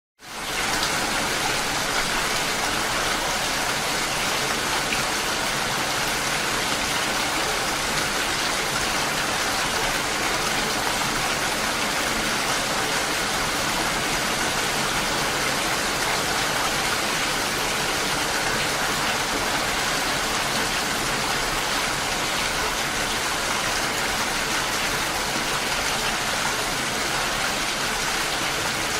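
Steady, heavy rain falling in a dense even hiss, rising out of a moment of silence at the very start.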